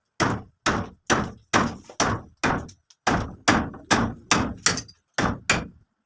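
Repeated hammer blows, a little over two a second, each a sharp knock with a short ringing tail.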